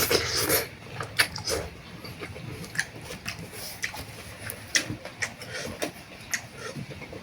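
Mukbang eating sounds: a short slurp of boat noodles at the start, then scattered wet clicks and smacks of chewing and utensils.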